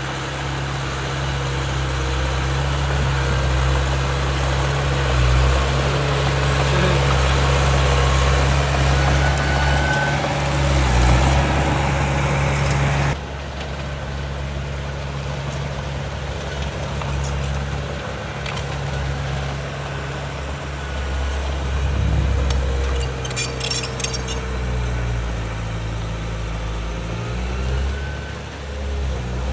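Heavy diesel earthmoving machinery running, a steady low engine drone that rises and falls a little. The sound changes abruptly about halfway through, and a short run of sharp metallic clanks comes a little after that.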